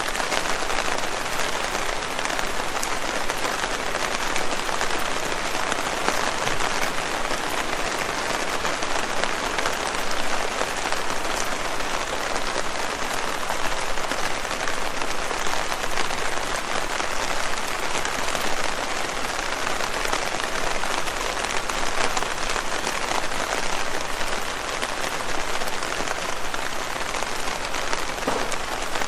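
Steady rain falling on leaves: an even hiss of many small drop hits that keeps up without a break.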